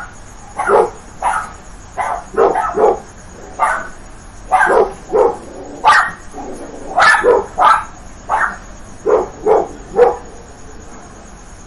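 Dogs barking angrily: about twenty short, sharp barks in irregular runs, some coming in quick pairs.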